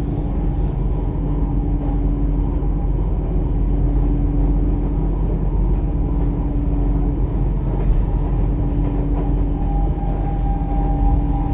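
Passenger train running, a steady rumble of wheels on track with a constant low hum, heard from inside the carriage.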